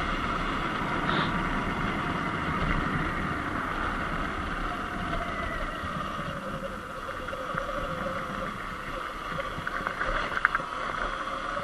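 Sur-Ron Light Bee X electric dirt bike on the move: a faint motor whine that rises and falls with speed, under steady wind and tyre noise. A few sharp clicks near the end.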